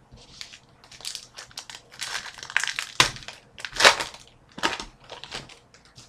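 Foil trading-card pack wrapper being opened and crinkled in the hands: a run of irregular crackly rustles, loudest about three and four seconds in.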